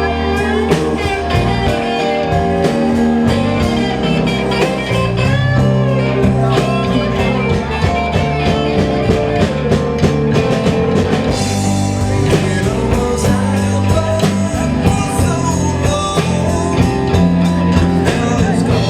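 Live blues band playing, with guitar prominent over a steady beat.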